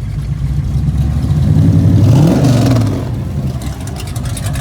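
A car engine idling with a lumpy, steady note. It is revved once about one and a half seconds in, the pitch rising to a peak and then falling back to idle within about a second.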